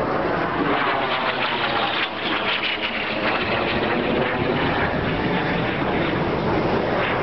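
Jet trainers of a six-jet display team (L-39 Albatros) flying by: a steady jet roar with a high turbine whine that slowly falls in pitch as they pass.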